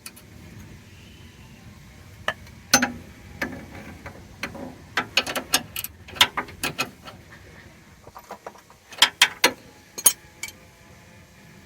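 18 mm ratchet wrench clicking in irregular bursts as it tightens the nut on a new steering idler arm. The clicks come in short runs, with the busiest stretch in the middle and a few more about nine to ten seconds in.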